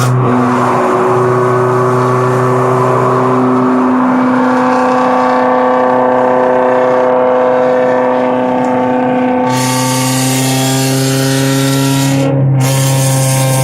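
Honda B16 DOHC VTEC four-cylinder in an EG Civic running with no exhaust fitted, the revs held fairly steady with a brief dip about twelve seconds in. A harsher hiss joins the engine note about nine and a half seconds in.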